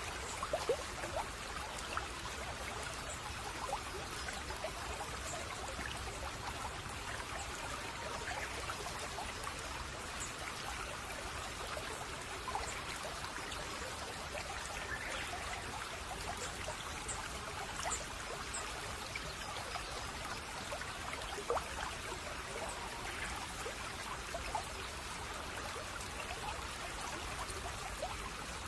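Shallow brook babbling steadily over stones, with small gurgles and plops of water dotted through it.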